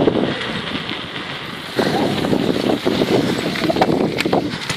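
Wind buffeting the microphone of a cyclist riding fast, with rumble from the bicycle running over rough ground. The buffeting gets heavier about two seconds in, with a couple of sharp knocks near the end.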